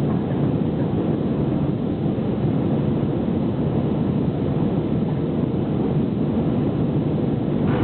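Steady low roar of an Airbus A319's jet engines and rushing air heard inside the passenger cabin during the takeoff climb.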